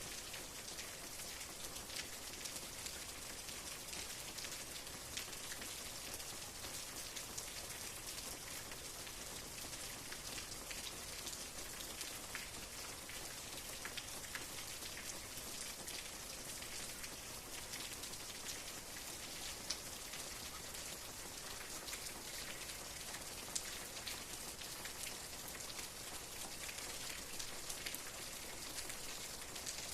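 Steady rain with the ticks of single drops landing on a surface, an even hiss that stays level.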